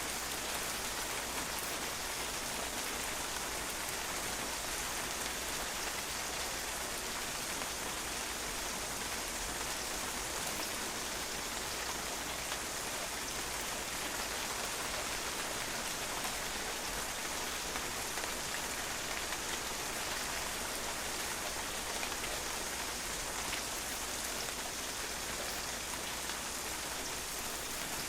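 Steady rain falling on a patio, a continuous even hiss of water drops pattering on the hard surface with no change in intensity.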